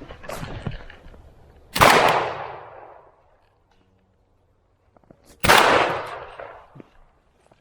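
Two shotgun shots fired at a pheasant, about three and a half seconds apart, each trailing off over about a second. Footsteps scuff before the first shot.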